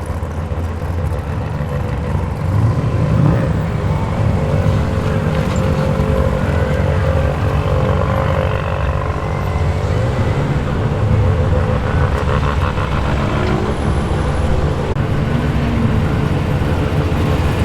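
Tuned car engine rumbling at low revs as it rolls slowly past, swelling louder about three seconds in.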